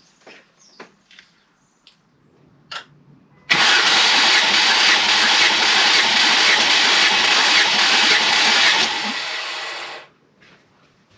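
Ford Mondeo ST220's 3.0 V6 cranked over on the starter motor without firing, as in a compression test, for about six seconds starting some three and a half seconds in, easing slightly before it stops. A few light clicks come before it.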